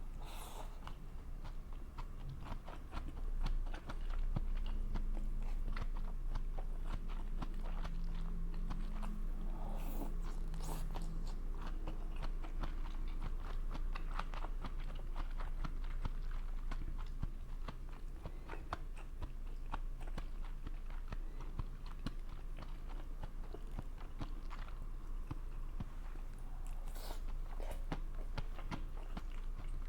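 A person chewing and biting food close to the microphone, fried rice vermicelli and wiener sausages, with many small sharp wet clicks and crunches. A low steady hum runs underneath.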